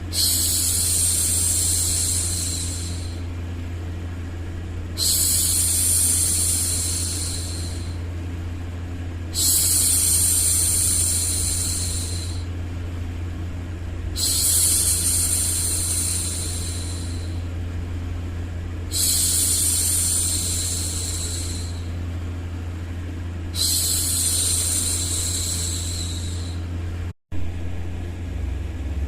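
A woman's voice hushing "shhh" six times, each shush lasting about three seconds and coming roughly every five seconds, over a steady low noise bed. The sound drops out for an instant near the end, where the loop is spliced.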